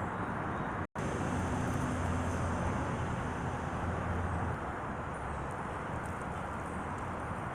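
Steady outdoor background noise with a low hum like a passing vehicle's engine from about a second in until past the middle, broken by a momentary dropout just before it begins.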